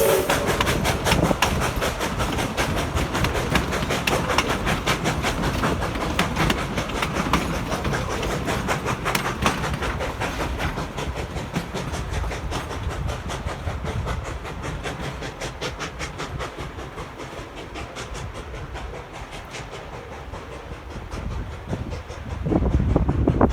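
Narrow-gauge train rolling past, its wheels clicking over rail joints in a quick rhythm and fading gradually as it moves away. A louder rushing noise rises near the end.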